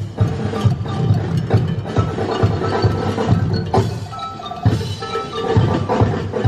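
Live drummers playing a fast, busy percussion rhythm with clicking, wood-block-like strokes, with music over it.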